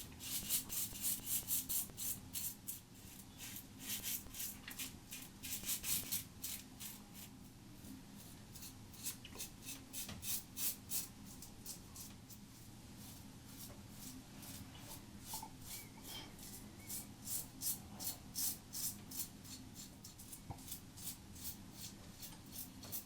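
Merkur 30C double-edge safety razor with a Gillette Silver Blue blade scraping through lathered stubble against the grain on a third pass, in short repeated strokes of about three a second. The strokes are loudest in the first six seconds and come in fainter runs later.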